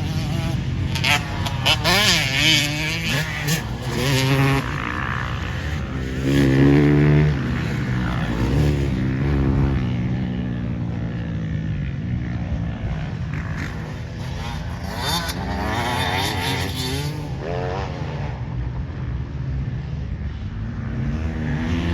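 Several motocross bikes running on a dirt track, their engines revving hard and easing off so the pitch rises and falls over and over, with a few bikes passing closer and louder.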